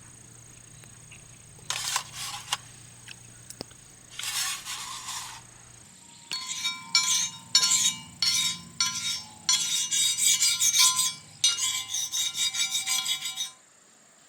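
Hard objects clinking together with a ringing tone. A few scattered clinks come first, then a long run of quick strikes, and the sound cuts off suddenly near the end.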